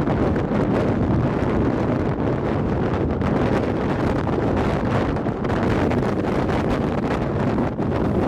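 Storm-force wind buffeting the microphone: a loud, steady rumble with small flickering gusts.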